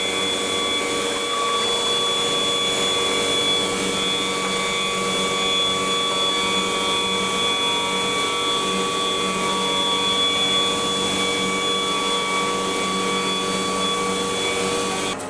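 CNC wood router spindle running steadily as it carves wood, a constant whine of several high tones over cutting noise; it stops abruptly near the end.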